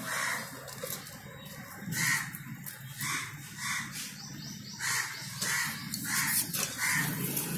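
A bird gives repeated harsh cawing calls, about nine short calls that come closer together in the second half. Light clicks from a puppy eating dry kibble out of a steel bowl sound under them.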